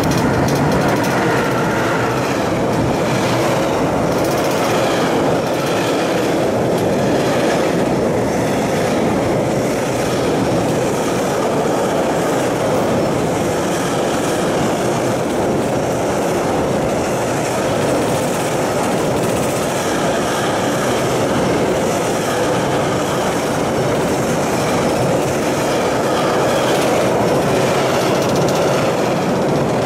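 Long freight train rolling past close by on a steel truss railway bridge: a loud, steady rumble of wheels on rails with a faint regular clacking.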